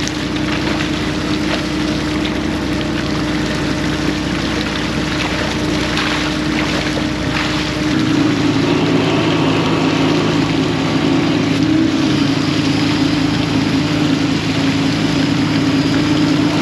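Fishing boat's engine running steadily. About eight seconds in its note changes and grows a little louder.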